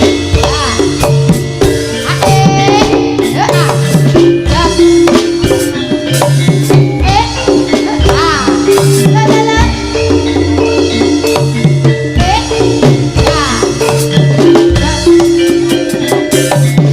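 Live East Javanese jaranan (turonggo horse-dance) ensemble music: drums and rattling percussion keeping a driving beat under sustained melodic notes and pitch-bending lead lines.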